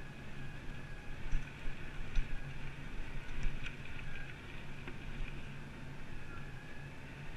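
Mountain bike riding on a trail: a steady rumble of tyres and wind on the microphone with a constant high hum, broken by a few sharp knocks and rattles as the bike goes over bumps.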